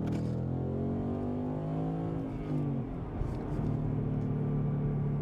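2015 Mustang GT 5.0 V8 running through an MBRP 3-inch cat-back exhaust, accelerating with the pitch rising for about two and a half seconds. The pitch dips briefly around three seconds in, then the engine runs steady.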